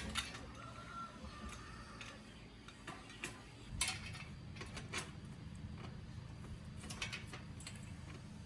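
Scattered metallic clicks, taps and clinks of hand work on metal parts, irregular and a second or so apart, over a steady low hum.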